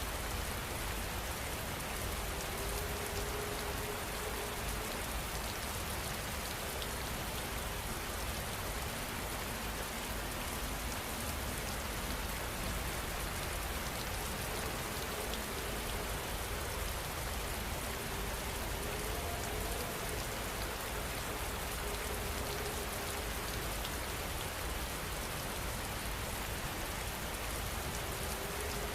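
Steady rain falling, an even, unbroken hiss of drops with no let-up or change in strength.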